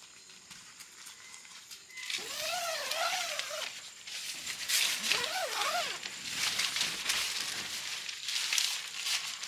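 Crinkling and rustling of tent fabric and groundsheet being handled, with many small crackles. Two short, wavering high-pitched calls sound about two and five seconds in.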